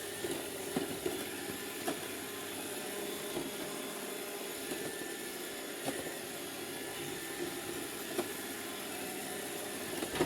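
iRobot Roomba robot vacuum running steadily with a motor hum, with a few light knocks spread through it.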